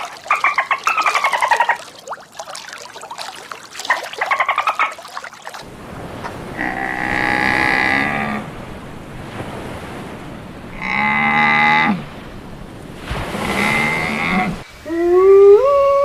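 A string of animal calls: a rapid pulsing, chattering call for about the first five seconds, then three long cattle moos, then a canine howl with rising and falling pitch starting near the end.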